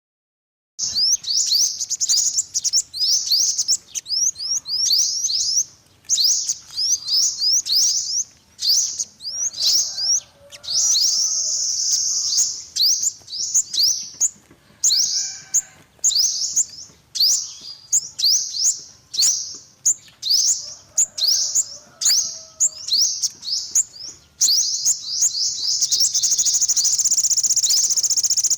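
Yellow-bellied sunbird calling: rapid bursts of high, thin, down-slurred chirps with short pauses between them, running into a continuous high trill near the end.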